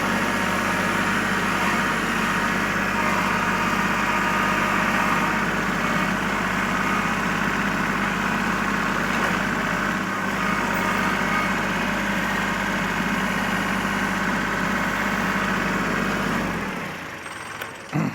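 Sawmill's Honda engine running steadily at an even speed, then shut off about sixteen and a half seconds in and winding down.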